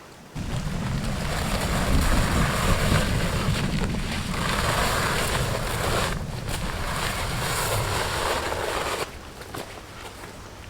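Wind gusting against the microphone, a heavy, uneven rumble with hiss that starts abruptly about half a second in and eases near the end.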